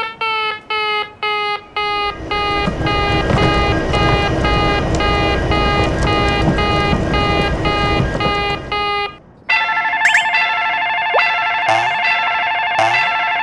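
Railroad crossing warning bells: one crossing's bell rings at about two strokes a second, over a low rumble from about 2 s to 9 s. About 9.5 s in it stops and a different, higher-pitched crossing bell takes over, with a few short pitch glides.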